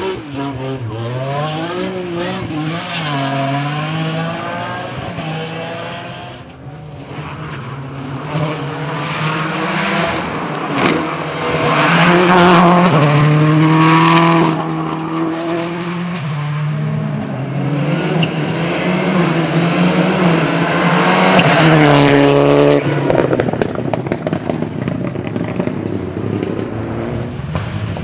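Rally car engines revving hard, their pitch repeatedly climbing and dropping with gear changes and lifts, along with tyre noise. The sound swells loudest about halfway through and again a little past two-thirds, as the car comes close.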